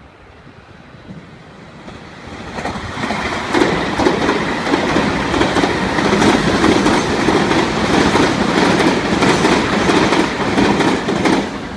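Meitetsu 1850-series and 1000-series Panorama Super electric train passing at high speed. Its wheels clack loudly over the rail joints in a rapid stream of sharp beats. The sound builds over the first few seconds and starts to fade just before the end.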